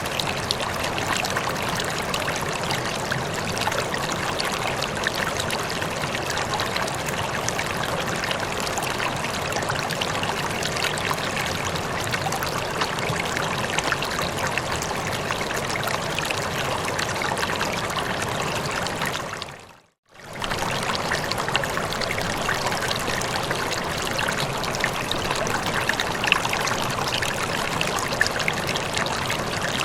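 Steady running water, trickling and splashing continuously. About two-thirds of the way through it fades to silence for about a second, then fades back in unchanged.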